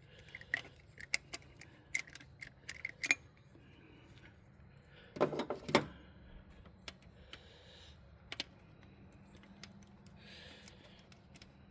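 Steel hand tools clinking and ticking: a socket with extension and U-joint being fitted to and worked on the carburetor's mounting nuts, in a run of irregular clicks with a louder clatter about five seconds in.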